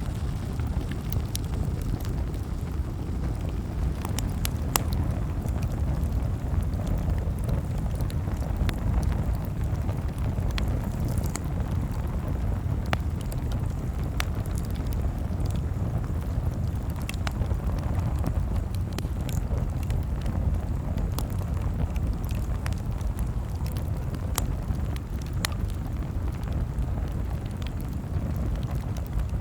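Campfire crackling, with irregular sharp pops and snaps scattered over a steady low rumble.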